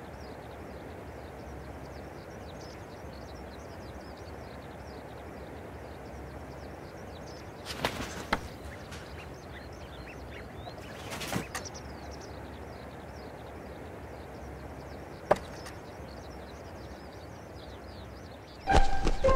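Many small birds chirping over a steady outdoor hiss, broken three times by brief flurries of wing flaps as a kite flies in to snatch fish from a box. Music starts loudly near the end.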